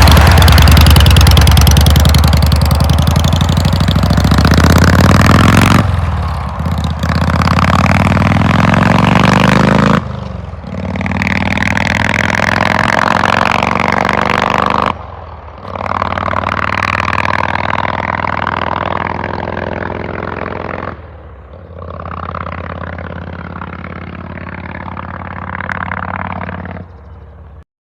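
Harley-Davidson Heritage Softail's Evolution V-twin pulling away and accelerating through the gears. There is a brief dip in sound at each of about four shifts, and the engine grows fainter as it goes. It cuts off abruptly near the end.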